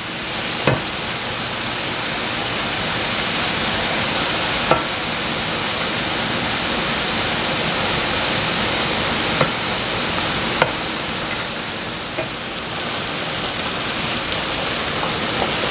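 Sliced portobello mushrooms sizzling steadily in butter and olive oil in a frying pan, with a few light clicks.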